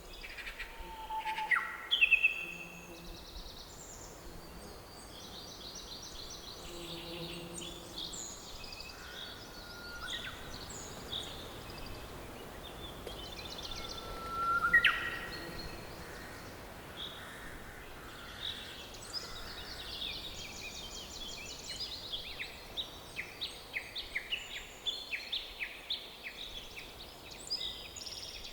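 Several songbirds singing and calling over a faint steady background hiss: short chirps, trills and rising whistles, with a fast series of repeated notes in the last third.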